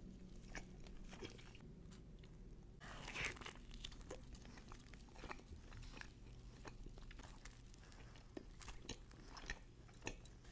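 Close-miked chewing and biting of a toasted cheese sandwich: small wet mouth clicks and crunches of the toasted bread, with one louder crunch about three seconds in.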